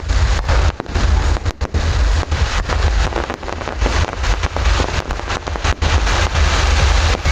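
Fireworks display: a dense run of bangs and crackles, several a second, over a heavy low rumble.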